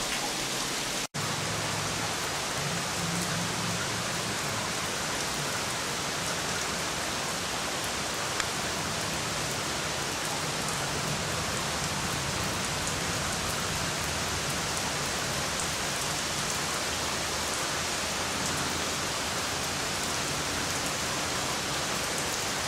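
Heavy rain pouring down steadily, a dense, even hiss of downpour, with a brief dropout in the sound about a second in.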